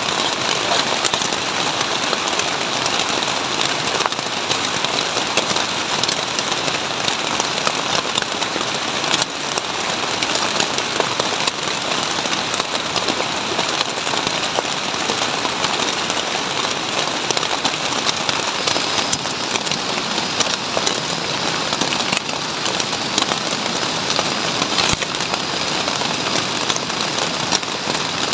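Heavy rain falling steadily, a dense hiss with many sharp drop hits crackling through it.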